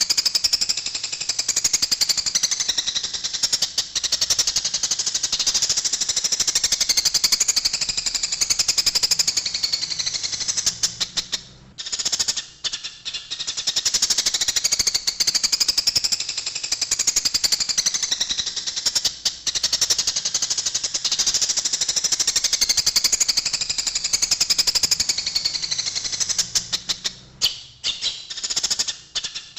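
Eurasian tree sparrows giving a fast, harsh, continuous chatter of high chirps, the calls of sparrows fighting. It breaks off briefly twice.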